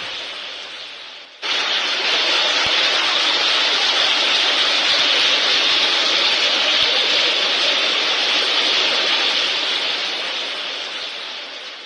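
Strong sandstorm wind: a steady rushing hiss of wind-blown sand. It dips and comes back louder about a second and a half in, then fades near the end.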